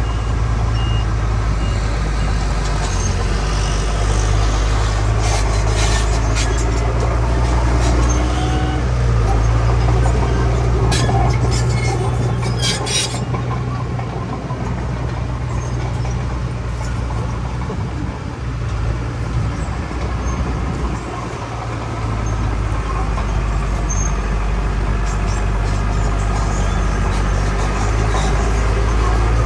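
Heavy diesel earthmoving machinery running steadily with a deep engine drone. A run of sharp clicks and short hisses comes around the middle, and the engine sound eases a little before building again near the end.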